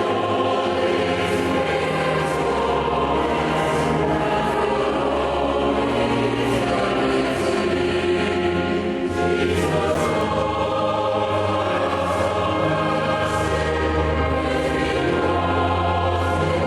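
A choir singing a hymn over instrumental accompaniment with held bass notes that change every couple of seconds.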